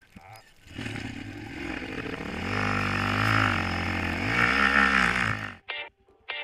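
Small four-wheeler ATV engine revving up and falling back twice, then cutting off suddenly. Two short musical stabs follow near the end.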